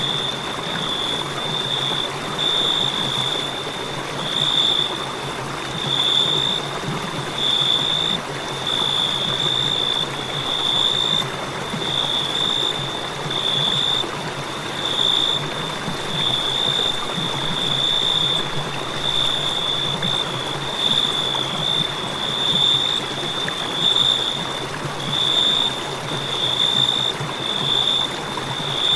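Crickets trilling steadily in one high, continuous tone that swells and fades every second or two, over a soft hiss.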